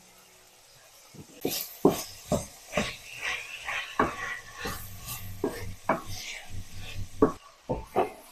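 Kitchen work sounds: an irregular run of sharp knocks and clatters, like utensils and dishes being handled, starting about a second in, with a few louder knocks near the end.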